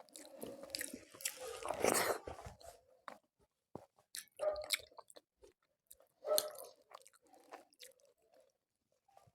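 Close-miked chewing of a person eating, with wet mouth sounds and small clicks: a long burst of chewing in the first two seconds, then shorter bites about four and six seconds in.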